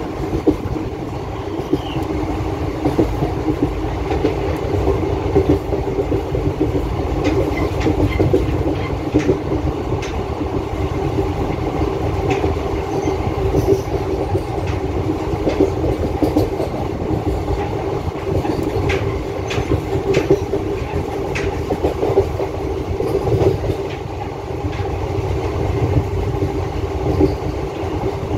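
Passenger express train running at speed, heard from the open door of a coach: a steady rumble and rattle with sharp clicks of the wheels on the track now and then.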